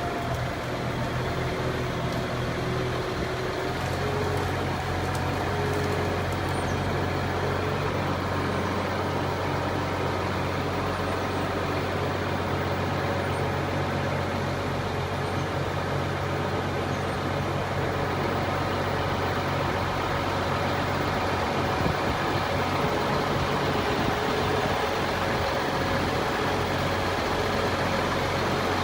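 Heavy diesel engine of a tree-removal crane running steadily. Its low rumble grows fuller about four seconds in.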